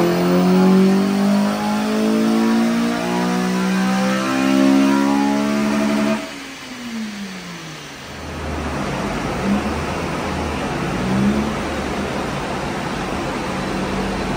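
Honda Civic FN2 Type R's K20 four-cylinder engine pulling up through the revs under load on a chassis dyno, its pitch climbing steadily for about six seconds. It then drops off abruptly as the throttle closes and the revs fall away, leaving the engine idling under a steady rushing noise, with two short rises in pitch.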